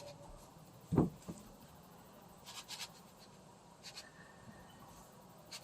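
A soft thump about a second in, followed by faint light clicks and scratches.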